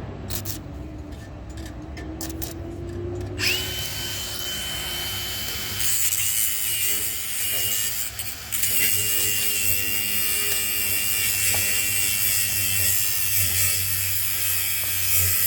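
Stick (arc) welding with a rod: a few sharp clicks, then the arc catches about three and a half seconds in and runs with a steady hiss. It breaks off briefly around eight and a half seconds, then re-strikes and runs on.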